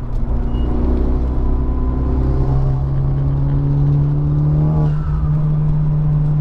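Honda Civic Type R's turbocharged four-cylinder engine accelerating hard under load: the revs climb steadily, drop sharply at a gear change about five seconds in, then pull steadily again.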